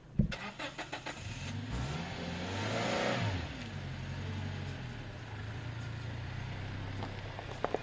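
A sharp knock, then a car engine running. Its sound swells and falls away around three seconds in, then settles into a steady low hum.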